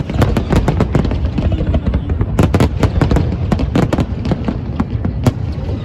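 Fireworks going off in rapid succession: many sharp bangs and cracks a second over a continuous low rumble.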